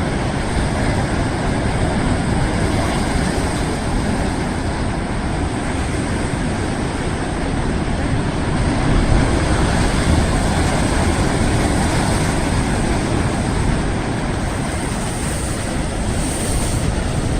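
Sea waves breaking and washing over the coastal rocks: a loud, steady rush of noise without a break.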